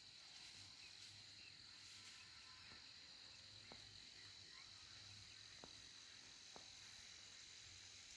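Faint, steady high-pitched insect chorus, like crickets chirring in the fields, with a few soft ticks.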